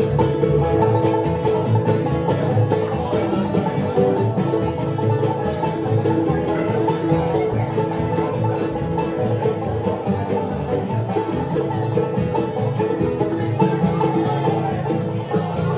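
Bluegrass band playing live at a quick pace, with banjo picking and guitar.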